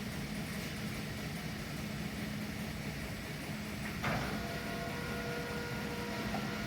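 Steady hum of industrial machinery in a sheet metal shop. About four seconds in there is a sharp clunk, after which a few faint steady whining tones join the hum.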